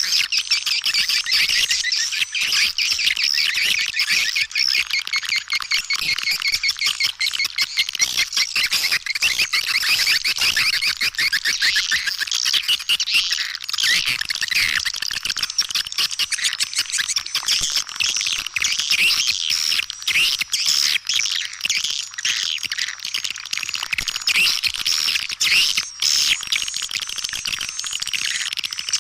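Dense, continuous twittering and chirping of many swiftlets, a swiftlet lure call played to draw the birds into a nesting house. The chirps are high-pitched, rapid and overlapping, with no break.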